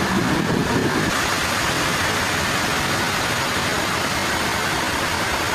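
Sawmill machinery running steadily, an engine-like drone with a faint high whine and no distinct cuts or cracks.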